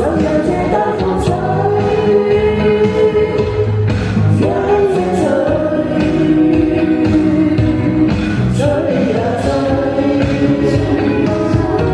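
A pop song with singing over steady backing music.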